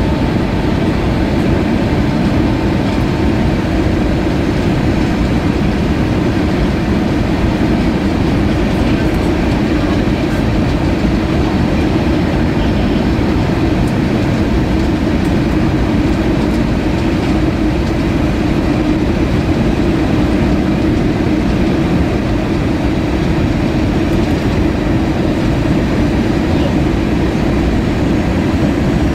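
Steady, loud cabin noise of an Airbus A320-232 airliner: an even, low rumble of engines and airflow heard from inside the passenger cabin, unchanging throughout.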